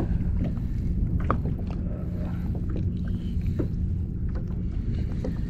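Steady low rumble of wind and water on the microphone aboard a kayak, with scattered light clicks and knocks from the rod and reel as a hooked fish is played.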